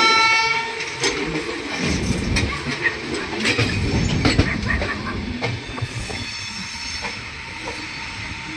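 A train horn sounds one steady note and cuts off just under a second in. Then the coaches of a moving Indian Railways passenger train rumble and clatter over rail joints and points, with sharp metallic clanks about once a second.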